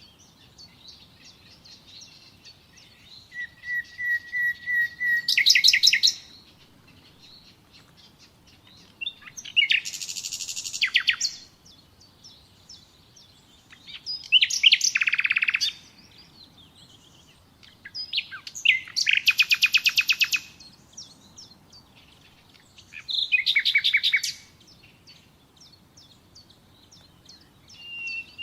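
Common nightingale singing: phrases of rapidly repeated notes and fast trills, each a second or two long, separated by pauses of a few seconds. One phrase opens with a run of even, repeated whistled notes before breaking into a trill.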